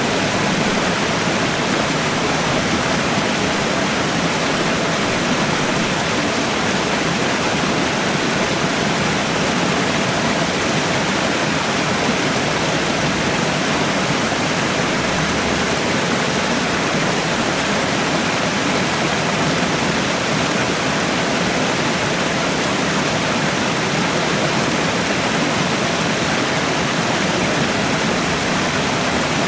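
Waterfall: water pouring down steadily in an even, unbroken rush.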